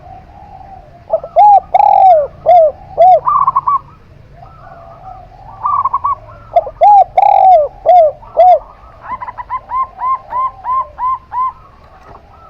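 Zebra dove and spotted dove cooing: two phrases of loud, arched coos, then a fast run of about eight short, even coo notes near the end.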